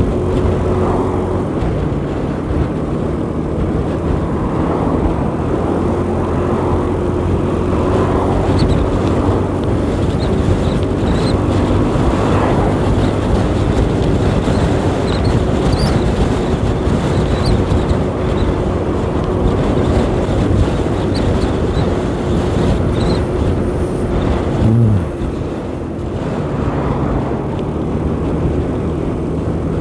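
A 125cc learner motorcycle's engine running at steady road speed under a steady rushing noise. About 25 seconds in, the engine note falls sharply and gets quieter as the throttle closes, then it runs on at a lower pitch.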